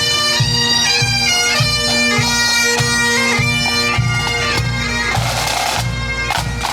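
Pipe band: several Highland bagpipes playing a tune together over their steady drone, with a regular drumbeat underneath.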